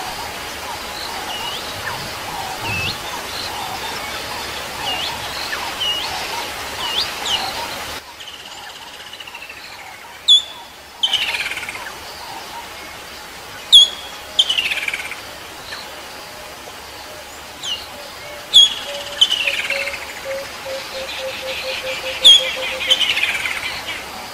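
Wild birds calling and chirping. After a change in the background about a third of the way in, one bird repeats a loud, sharp whistled note followed by a falling trill, about every four seconds. Near the end there is a lower run of notes that quickens.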